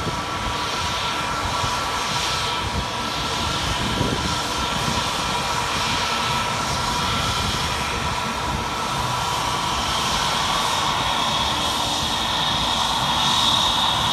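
Airbus A320-family jet airliner's twin turbofan engines running: a steady whine of several high tones over a rushing roar, growing a little louder near the end.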